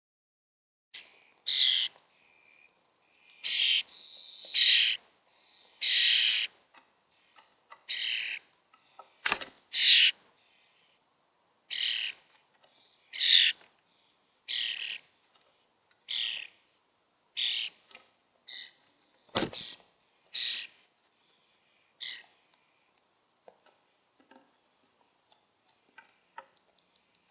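Baby starlings giving harsh, raspy calls over and over, one roughly every second or so. Two brief knocks come about a third and two thirds of the way through.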